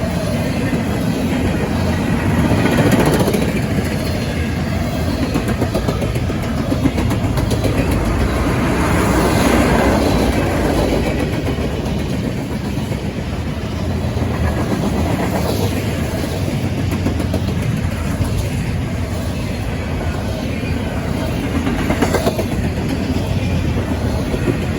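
Freight train cars rolling past close by: steady rumble of steel wheels on rail with rapid clicking over the joints, swelling louder every several seconds.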